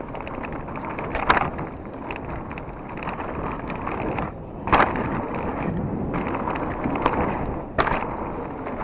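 Mountain bike descending a rough dirt trail: tyres rolling over dirt and roots, a steady clatter from the chain and frame, and wind rushing on the chest-mounted microphone. Four sharp knocks come through: a little over a second in, near the middle, and twice near the end.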